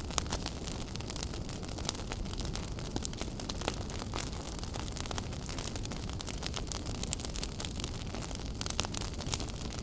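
Wood fire in a fireplace burning steadily, with a low rumble of flames and many irregular sharp crackles and pops.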